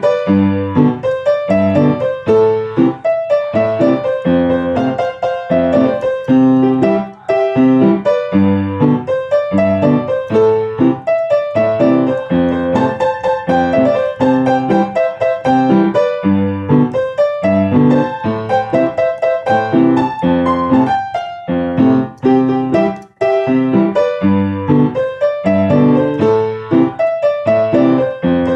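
Piano music: a melody over chords and low bass notes, played as a steady stream of struck notes.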